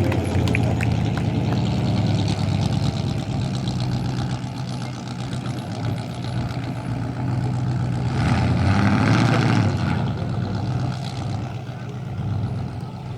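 Dirt-track race truck engine running slowly near idle, with a stretch about eight seconds in where it grows louder for a couple of seconds.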